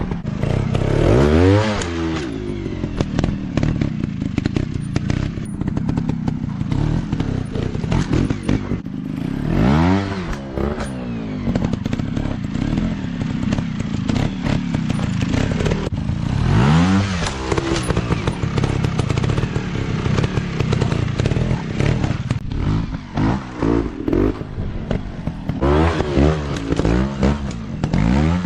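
Dirt bike engines running hard, the revs swinging up and down several times as the throttle is opened and closed, with scattered knocks and clatter.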